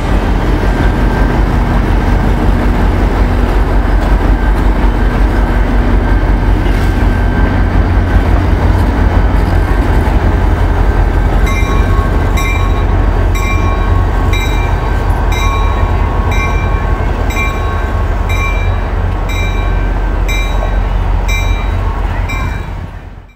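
Passenger train in motion: a loud, steady low rumble of the running train. About halfway through, a ringing tone starts repeating about every 0.7 s over the rumble. The sound cuts off suddenly at the end.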